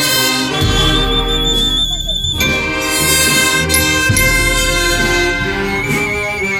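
Brass band playing a Guatemalan funeral march (marcha fúnebre): brass and woodwinds hold slow, sustained chords over a steady low bass line.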